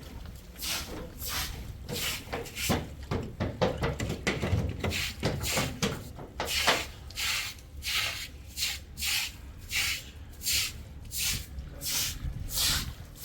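Rhythmic rasping or scraping strokes, uneven at first, then settling into a steady beat of about one and a half strokes a second.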